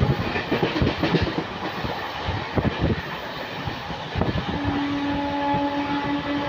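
Moving train, its wheels clattering over rail joints with uneven knocks over a running rumble. A steady pitched tone comes in about two-thirds of the way through and holds.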